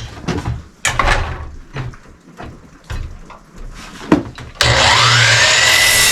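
Wooden boards knocked and handled, with a few sharp knocks. About four and a half seconds in, an electric saw starts up and runs loud, its whine rising and then dipping as it cuts a board to length for the table legs.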